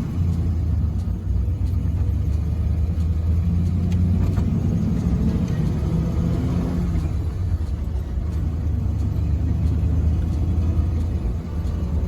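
Car engine running with a steady low rumble; the tone swells and shifts slightly in the middle.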